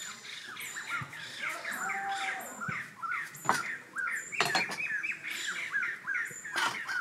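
Birds chirping rapidly, several short hooked chirps a second, with a higher repeated buzzing call above them. A few sharp knocks from the cleaver and watermelon on the bamboo floor stand out, about halfway through and again near the end.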